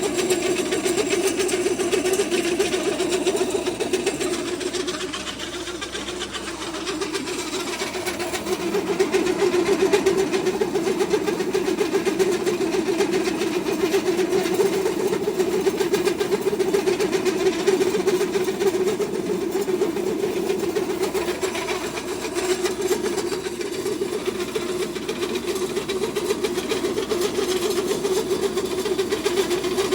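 Homemade pellet feed mill running steadily, a continuous mechanical hum with a fast rattle; it eases slightly about five seconds in, then picks back up.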